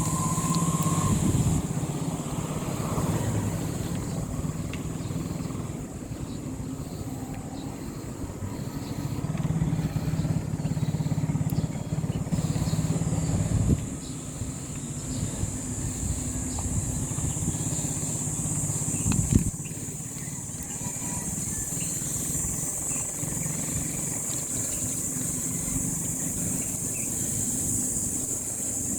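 Motorcycle engine running during a ride, its hum swelling and easing a few times, with wind rumbling on the microphone and a sharp knock about two-thirds of the way through.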